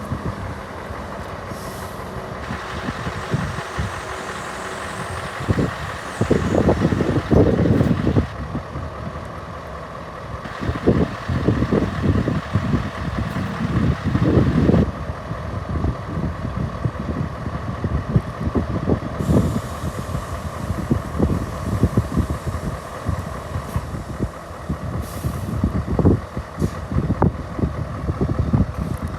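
Scania R 580 truck's V8 diesel engine running, with irregular low surges and bumps over a steady drone.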